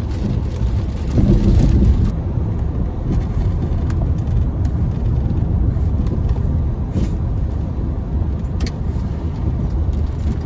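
Steady low rumble of a car driving, heard from inside the cabin, with a louder swell about a second in and a few faint clicks later on.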